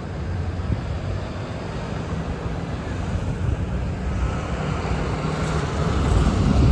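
Street traffic with a heavy vehicle's engine rumbling, growing louder near the end as it approaches.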